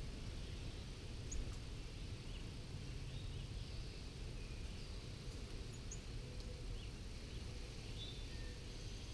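Faint, scattered short bird chirps and call notes, a few sharp high ones among them, over a steady low rumble.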